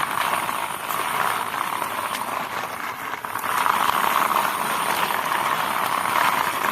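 Toy JCB's plastic wheels rolling and scraping along a rough boundary wall, a steady gritty rolling noise that dips briefly about three seconds in, with a few light clicks.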